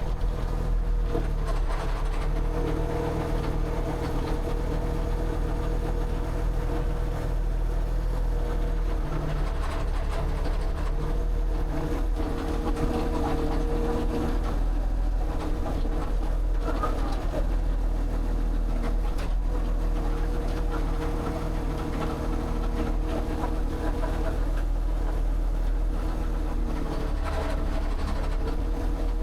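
A motor running steadily, with a constant hum and scattered light clicks.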